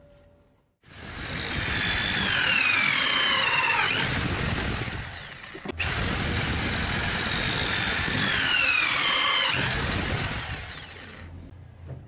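A power tool running under load twice, each run about four to five seconds, with a whine that falls in pitch partway through each run. A sharp click separates the two runs.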